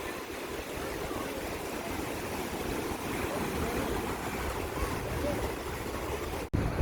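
Sea surf washing steadily on a beach, with faint distant voices in the background. Near the end the sound cuts out for an instant and comes back with wind buffeting the microphone.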